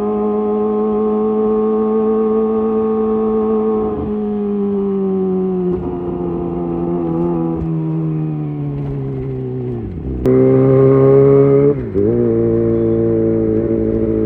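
Kawasaki ZX-25R's 250 cc inline-four running through a Leovince GP Evo high-mount exhaust. The engine note holds high, then falls in several steps over about six seconds. About ten seconds in it rises sharply and gets louder for a second or so, dips, then settles to a steady note.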